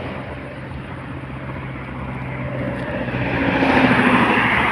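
A motor vehicle's engine running with a steady low hum, joined by a broad rush of engine and road noise that swells to a peak about four seconds in.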